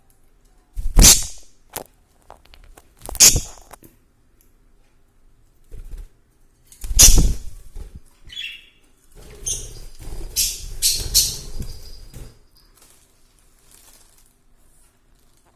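Pet budgerigars scuffling and flapping in a few loud, sudden bursts, with one short chirp about halfway through.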